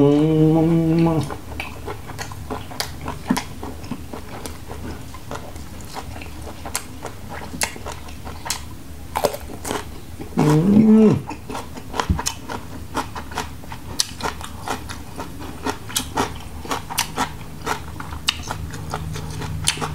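Close-up chewing of grilled squid tentacle, with many wet clicks and lip smacks throughout. A held hum opens the first second, and a short rising-and-falling hum comes about ten seconds in.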